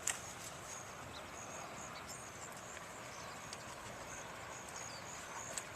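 Outdoor ambience: a steady hiss with short, high-pitched chirps repeating on and off, and a sharp click right at the start and another near the end.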